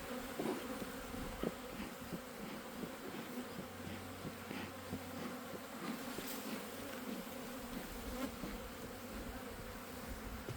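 Swarm of honeybees buzzing around an opened hive: a steady hum with a few faint ticks. The bees are agitated and stinging at the beekeepers' suits.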